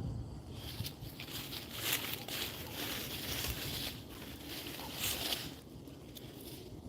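A dog eating: irregular bursts of chewing and biting noise, busiest about two to three seconds in and again around five seconds in.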